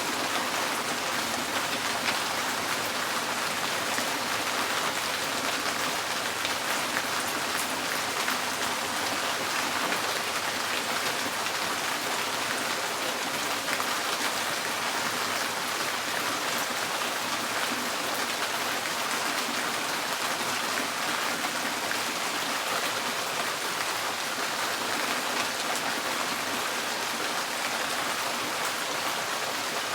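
Rain falling steadily on a tin roof, a dense even patter of many small drop ticks on the metal.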